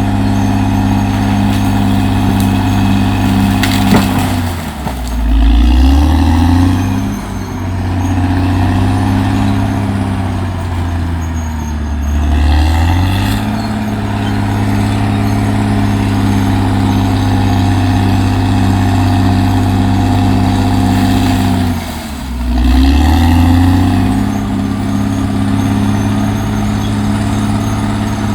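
Caterpillar D6R XL bulldozer's diesel engine running hard. Its pitch sags and recovers three times as the blade takes load, with a sharp clank just before the first sag.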